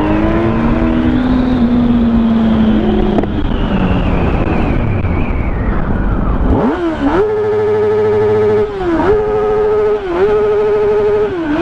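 Motorcycle engine winding down under wind noise as the bike slows. About seven seconds in it revs up and holds high revs steadily, dipping briefly twice, then the revs drop near the end.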